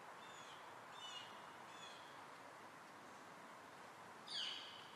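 Birds calling over a faint steady hiss: three short falling chirps in the first two seconds, then a louder call sweeping downward near the end.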